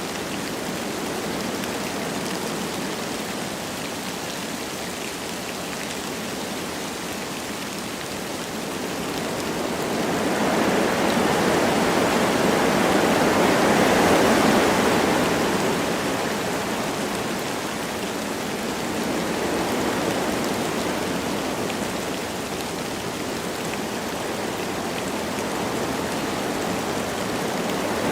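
Wind blowing through forest trees with light rain falling, a steady rushing noise. A stronger gust swells about a third of the way in, peaks near the middle, then eases back.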